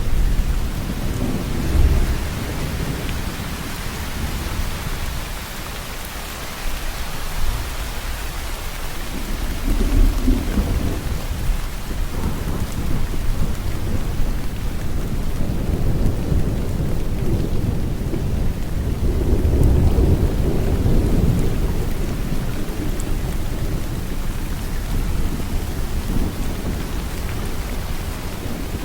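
Steady heavy rain falling, with low rolls of thunder that swell and fade three times: briefly near the start, about a third of the way in, and for several seconds past the middle.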